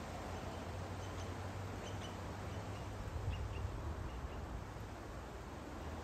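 Faint, short, high-pitched bird chirps, a handful scattered through the first few seconds, over a steady background hiss and a low hum.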